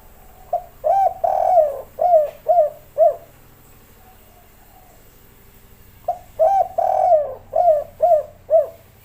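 Spotted dove cooing: two song phrases, each a short note, a longer drawn note, then three short 'kuk' notes, the three-note ending of the 'kuk 3' call type.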